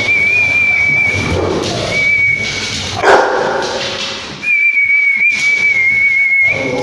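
Dogs fighting: scuffling and barking, with a sharp loud hit about three seconds in. Through it runs a high, slightly wavering whistle-like whine, held three times for about a second or two each.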